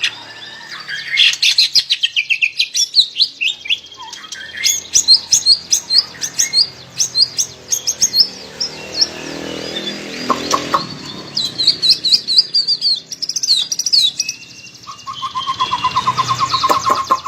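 White-rumped shama (murai batu) singing a varied song of rapid high chirps and whistled phrases, ending with a lower trilled phrase near the end.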